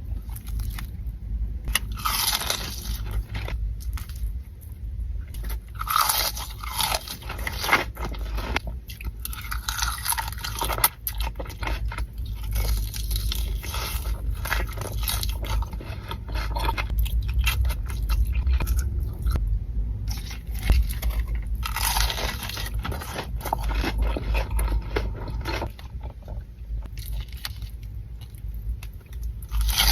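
A person biting and chewing crispy KFC fried chicken, with repeated spells of loud crunching between quieter chewing.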